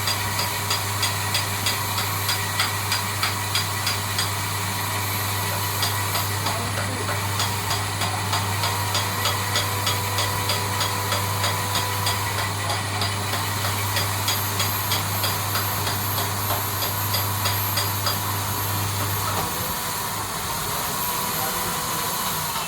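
A lathe running with a brake drum mounted on it, a steady machine hum with a regular high ticking a few times a second. The low part of the hum stops about 19 seconds in while the rest of the machine noise carries on.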